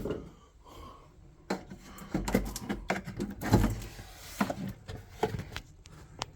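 Ariston boiler's front casing panel being handled and taken off: a run of irregular clicks and knocks, with a couple of heavier thumps about two and three and a half seconds in.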